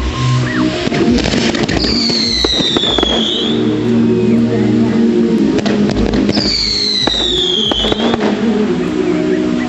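Fireworks display going off over music: sharp bangs and crackles, with two long whistles falling in pitch, about two and six and a half seconds in.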